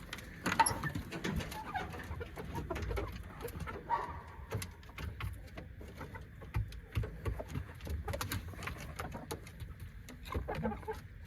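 Penned gamefowl chickens giving a few soft, low calls, among scattered small clicks and knocks.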